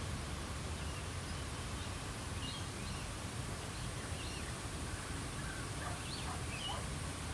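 Australian bush ambience: small birds give scattered short chirps and whistles, more of them in the second half, over a steady low rumble and a faint high hiss.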